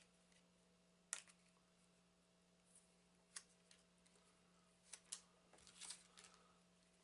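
Faint handling of a deck of trading cards as rubber bands are taken off it: a few scattered light clicks and snaps, the sharpest about a second in and a cluster around five seconds in.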